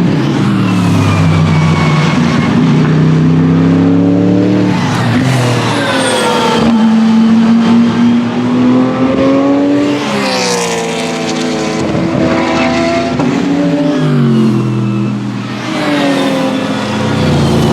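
Several GT race cars passing one after another on a circuit, their engines revving hard through the gears. The pitch climbs and falls repeatedly as each car shifts and goes by.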